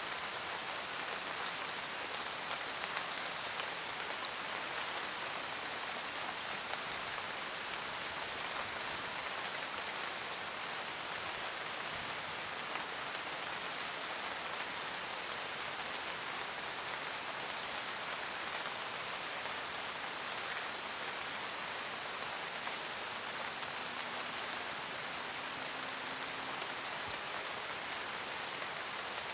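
Steady rain falling in a forest, an even hiss of many raindrops pattering on leaves and ground.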